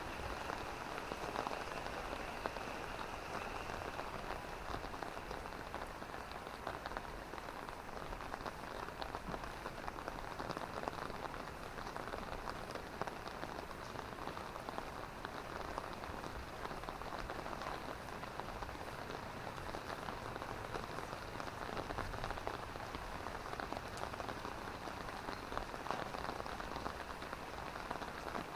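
Steady drizzling rain falling, a continuous hiss dotted with many small drop ticks.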